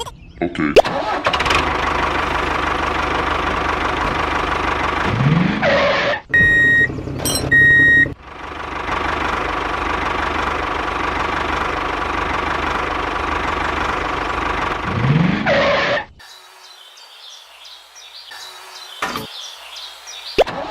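Miniature tractor engine running steadily, with a rising pitch just before the engine sound breaks off briefly. Two short high beeps like a horn sound about six seconds in. The engine comes back and runs steadily again, then drops away to something much quieter about sixteen seconds in.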